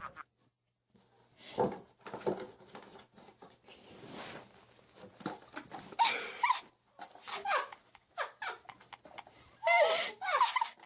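A pet's short pitched cries, several in a row, loudest about 6 seconds in and again near the end.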